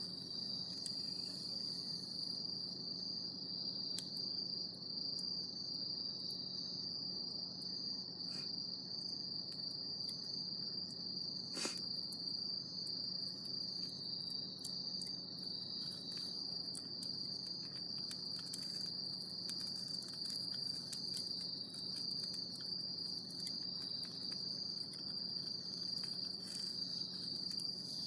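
Crickets trilling: one continuous high-pitched, unbroken chirring that holds at an even pitch, with a few faint scattered clicks on top, the clearest about twelve seconds in.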